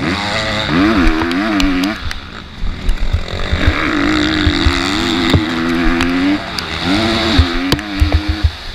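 An MX2 motocross bike engine revving up and down again and again as the throttle opens and closes and the gears change. There is a low rumble of wind buffeting underneath, and scattered sharp knocks.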